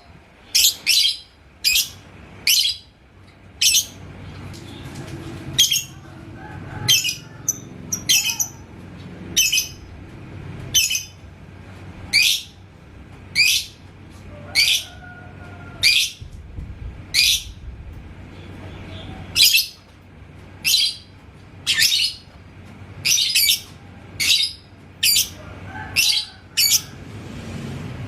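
Lovebird giving a steady series of short, shrill chirps, about one a second, each a sharp high squeak.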